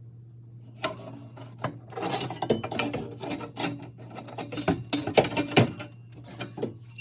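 Metal clanking and rattling as steel exhaust pipe sections and hangers are handled and fitted. It starts about a second in as a quick run of knocks and clinks and thins out near the end.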